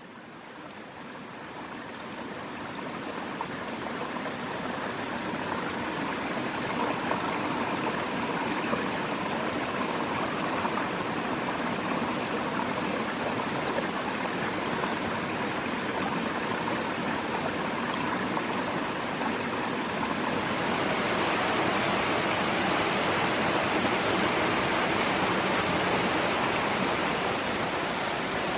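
A steady rushing noise that fades in over the first few seconds and grows a little brighter about three-quarters of the way through.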